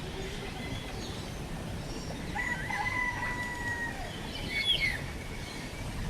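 Birds calling in a walk-through aviary: one long, held call starting a little after two seconds in and lasting about a second and a half, then a few short chirping calls near the end.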